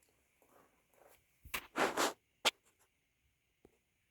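A few short scraping or rubbing sounds about a second and a half in, then a sharp click, with faint ticks after.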